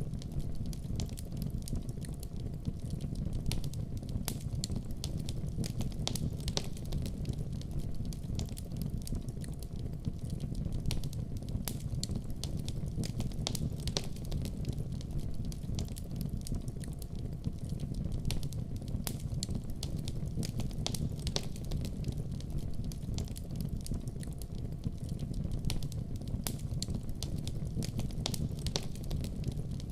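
Wood fire burning in a fireplace: a steady low rumble of flames with frequent small sharp crackles and pops.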